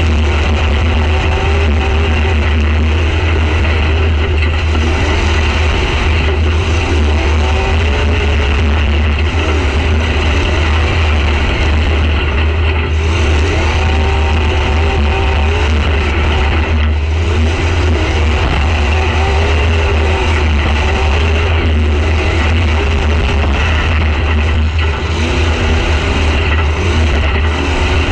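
Demolition derby car's engine running hard, its pitch rising and falling as the throttle is worked, heard from inside the stripped cab over a heavy low rumble.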